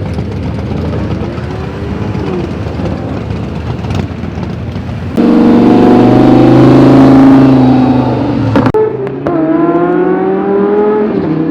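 A car engine rumbling, then about five seconds in a car accelerates hard close by and gets much louder. There is a quick gear change near nine seconds, after which the engine pitch climbs again.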